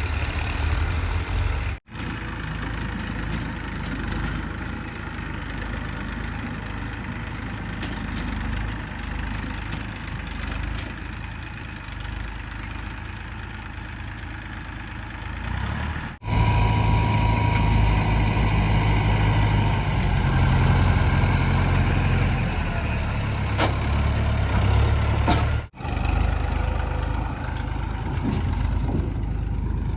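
Heavy diesel engine of a backhoe loader at work, running steadily. Sudden cuts come about 2, 16 and 26 seconds in, and the engine is louder after the second cut.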